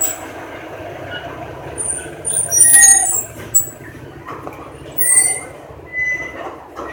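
High-pitched squealing bird calls, twice, about two and a half seconds apart, over a steady background hum.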